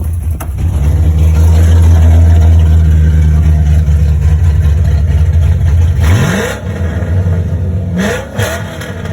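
A 1995 Mustang Cobra's cammed 5.0 (302) V8, with GT40 heads, an E303 cam and an open X-pipe exhaust, idling loud and steady, then revved quickly twice, about six and eight seconds in.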